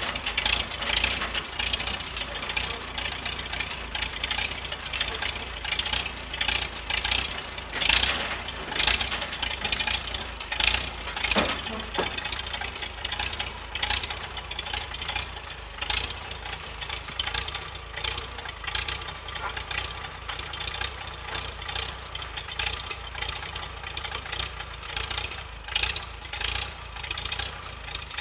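Tractor engine running with an uneven, pulsing note.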